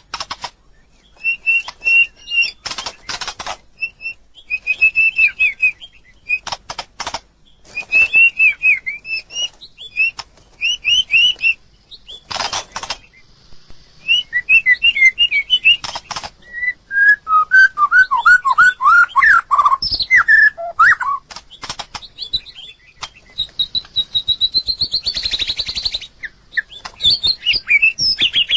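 White-rumped shama singing: a varied run of quick whistled phrases, some higher and some sliding lower, with sharp clicks between phrases.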